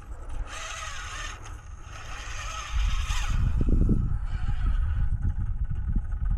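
Axial SCX24 micro RC crawler's small electric motor and gears whirring as it crawls over rock, with scraping and clatter. About three seconds in, a heavy, uneven low rumble takes over.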